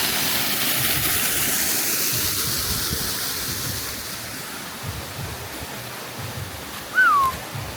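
Waterfall pouring into a pool: a steady rushing hiss that slowly fades over the second half. Near the end comes one short, falling whistle, the loudest sound.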